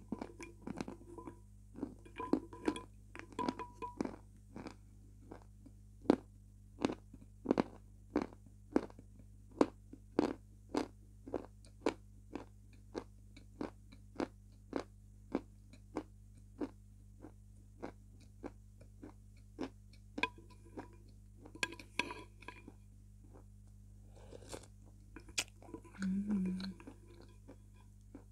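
Close-up eating sounds: a person chewing soft food, with short wet mouth clicks and smacks about one or two a second, picked up by a clip-on microphone close to the mouth. A brief low hum comes near the end.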